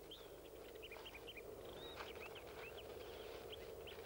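Faint ambience of small birds chirping in quick, short calls, several a second, over a low steady hum.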